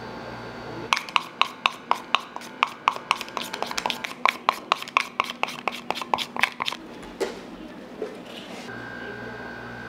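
A rapid run of sharp taps, about four a second, from a kitchen utensil working against a bowl or board. Each tap has a short ring. The taps start about a second in, stop after about six seconds, and are followed by a couple of single knocks.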